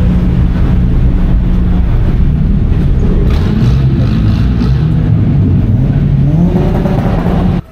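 Car engine running loudly and revving, its pitch rising about six seconds in, then cutting off abruptly near the end.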